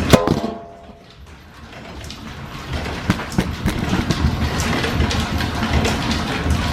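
A sharp metallic clang right at the start that rings briefly. Then a steady mechanical rumble with scattered clicks and knocks fades back in and keeps running.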